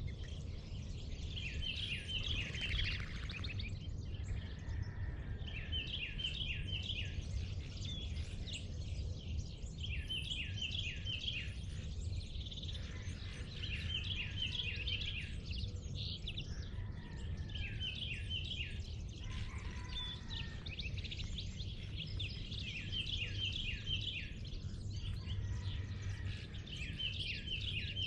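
Northern cardinal singing: a short phrase of quick repeated down-slurred whistles every four seconds or so, over a steady low outdoor rumble.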